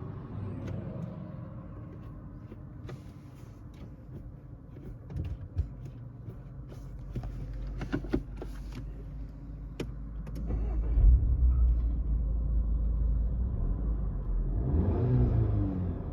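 In-cabin sound of a VW Golf R's turbocharged EA888 Gen 3 four-cylinder engine driving along, a steady low drone that gets louder from about eleven seconds in, with a few small clicks and knocks. The engine is misfiring on cylinder 3, which can be felt at this point.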